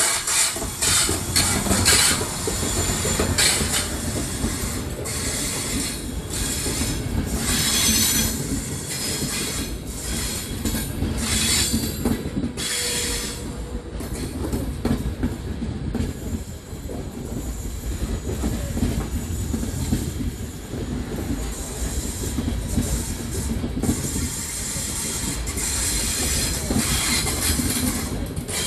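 An FS E402B electric locomotive and its Intercity coaches rolling slowly past close by, with a steady rumble of wheels on rail. Repeated high-pitched wheel squeals come through most of the first half and again near the end.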